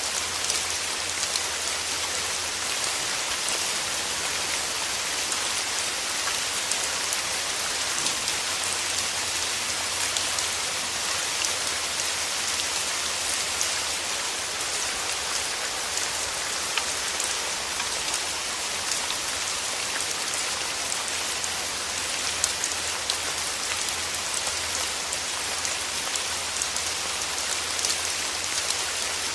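Steady rain falling: an even, unbroken hiss made of countless small drop ticks, with a faint low rumble underneath.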